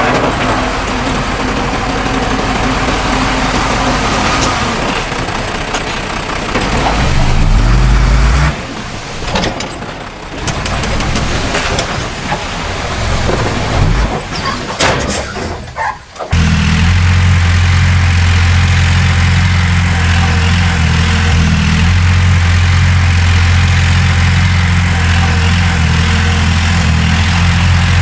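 Heavy diesel engines of earthmoving machinery running. An engine revs up about seven seconds in, then the sound drops to a quieter stretch with scattered knocks, and from about sixteen seconds in a deep, steady engine drone takes over.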